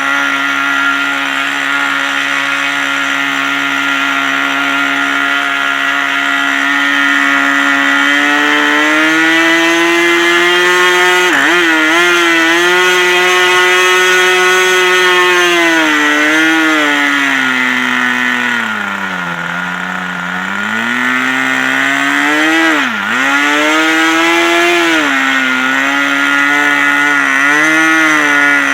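GMS .47 two-stroke nitro glow engine of an RC airplane running at a steady speed. About eight seconds in it speeds up; around twenty seconds it is throttled down low, then blipped up and down several times.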